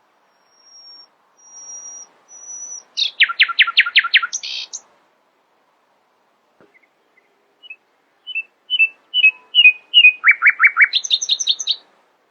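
Nightingale singing two song phrases. The first opens with three long, high whistled notes, then runs into a fast series of sharp falling notes and ends on a buzzy note. After a pause of a few seconds, the second is a string of short notes that quickens into rapid falling notes and a high trill.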